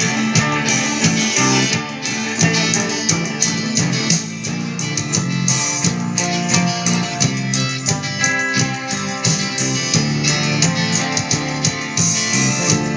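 Rock song played with strummed guitar, keeping a steady rhythm.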